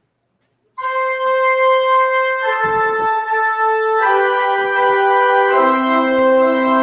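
Organ begins playing about a second in, with sustained chords held steady and changing every second or so: the postlude that follows the dismissal.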